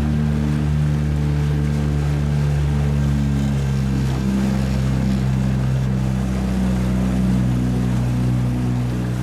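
Boat motor running steadily, its pitch dropping slightly about four seconds in.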